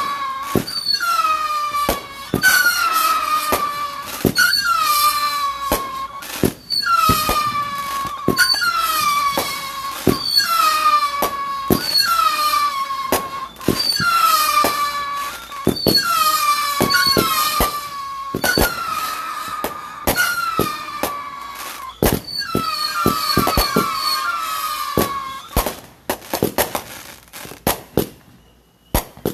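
Consumer fireworks firing a rapid run of whistling shots, each a shrill whistle about a second long falling slightly in pitch, with sharp bangs in between. Near the end the whistles stop and a few scattered pops finish the volley.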